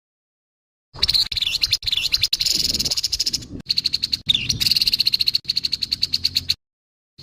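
Grey-headed babbler giving harsh calls: a loud, dry, rapid rattle of clipped notes. It starts about a second in and stops shortly before the end.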